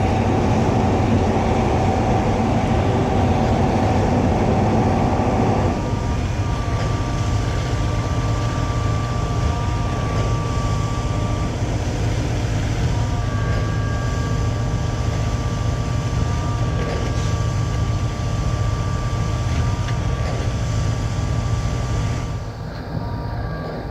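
Concord 40-metre Z-boom concrete pump truck running while pumping, a steady mechanical drone with engine tones. About six seconds in it drops to a lower, quieter level with a thin steady whine over it.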